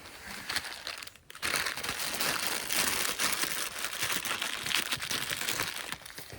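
Plastic packaging crinkling and rustling as it is handled. The crinkling grows busy and loud about a second and a half in, after a brief lull.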